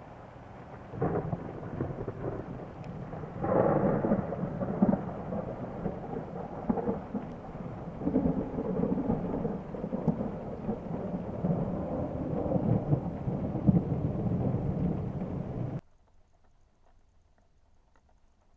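Thunder rolling: a rumble builds about a second in and swells to a louder peal a few seconds later. A long, uneven low rumble follows and then cuts off abruptly near the end.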